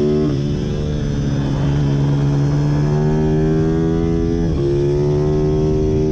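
Pit bike engine running hard, its pitch climbing steadily. Twice the pitch drops sharply, just after the start and again about four and a half seconds in, then climbs again.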